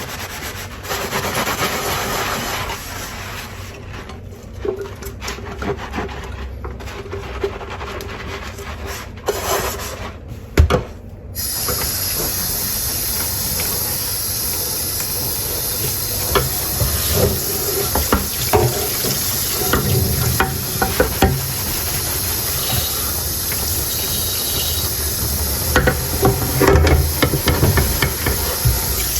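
Dishes being washed by hand at a sink: scrubbing and rubbing with occasional knocks, then about eleven seconds in the tap comes on and water runs steadily while dishes clink and knock as they are rinsed.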